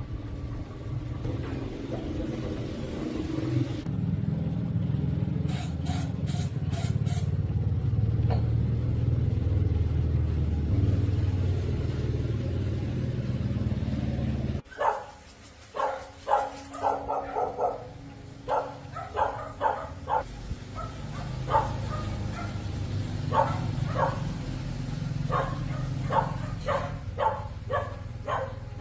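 A 110cc Honda motorcycle engine, a single-cylinder four-stroke, running steadily, with a few sharp clicks about six seconds in. It cuts off abruptly about halfway, and a dog then barks in short repeated yaps over a fainter engine hum.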